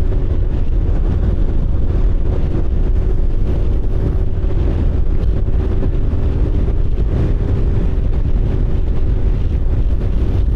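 Motorcycle engine running at a steady speed while riding, with wind rumbling on the microphone.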